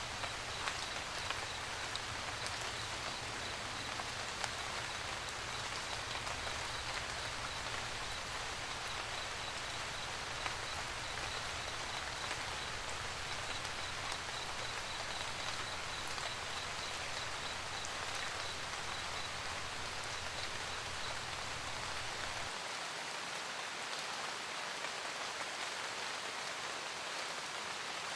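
Steady rain pattering, an even hiss with scattered louder drops. A low rumble underneath cuts off suddenly about 22 seconds in, and a faint, fast high-pitched ticking runs through the first two-thirds.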